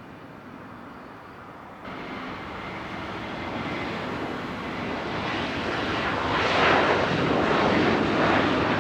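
Jet airliner's engines growing steadily louder as the aircraft approaches on or near the runway, with a sudden step up about two seconds in.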